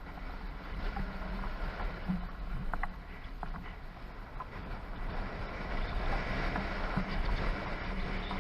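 Storm wind and rain aboard a small sailboat: a steady rushing hiss that swells in the second half, with scattered small taps and a low steady hum underneath.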